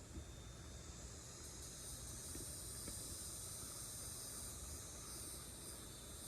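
Faint, steady high-pitched chirring of insects such as crickets, growing a little louder about a second and a half in, over a low rumble.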